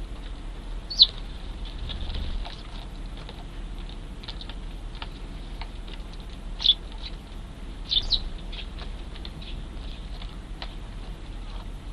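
Eurasian tree sparrows chirping: a loud short chirp about a second in, another past the middle and a quick pair soon after, with fainter chirps scattered throughout.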